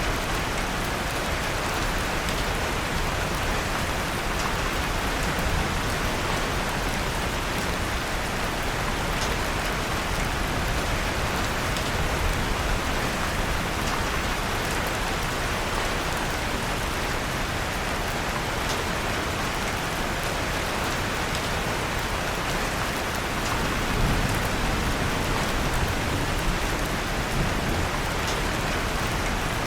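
Steady rain mixed with a crackling fireplace fire, with faint sharp clicks scattered through the even hiss.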